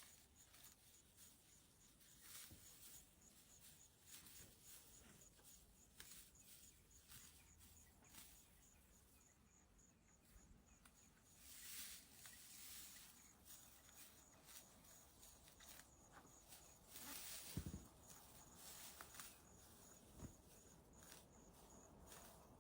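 Near silence: faint outdoor ambience with soft rustling and scattered light ticks, and a slightly louder rustle with a dull thump a little after the middle.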